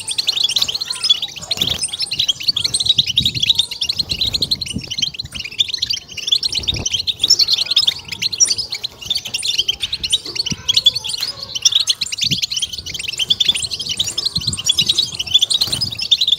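European goldfinch song: a dense, rapid run of high twittering and chattering notes that goes on without a break.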